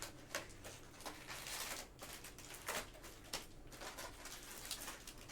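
Packaging being opened: plastic wrap and cardboard crinkling and rustling, with scattered small clicks and crackles, as a sealed trading-card hobby box is unsealed.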